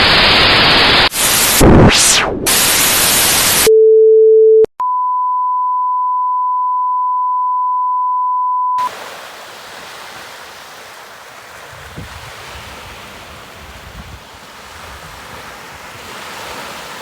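Edited intro sound effects: a loud burst of static-like hiss with a sweeping glitch, a short lower tone, then a steady high test-tone beep lasting about four seconds. It cuts off into a much quieter, steady outdoor hiss.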